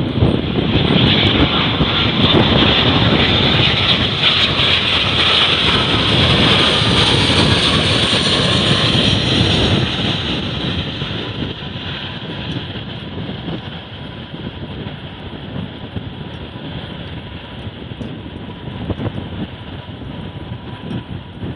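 Airliner passing by with its engines running: loud for the first ten seconds or so, brightest in the middle, then fading away to a lower rumble.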